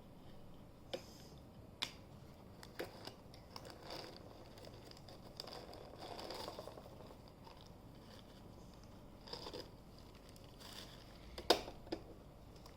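Small objects being handled: scattered light plastic clicks and taps with soft rustling of cloth, as the washing machine is opened and the washed dresses are taken out. A sharper click comes near the end.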